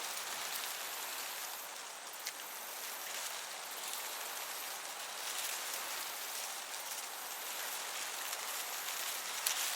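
Summer meadow ambience: a steady hiss of breeze over the grass with dense cricket chirping, broken by a couple of faint clicks.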